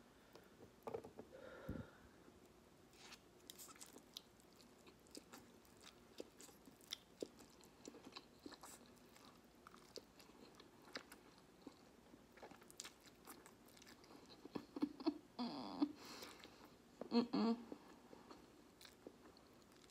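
Close-up chewing and slurping of spicy ramen noodles, with many small wet mouth clicks. A couple of louder mouth noises come near the end.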